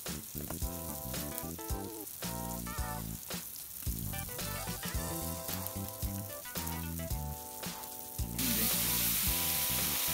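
Meat, squid and onions sizzling and spitting on a hot griddle pan, with music playing underneath. The sizzling gets suddenly much louder and hissier near the end.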